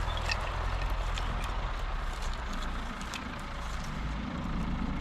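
Farm tractors running in the distance, a steady low engine drone, with light crackles and snaps from a small wood campfire close by.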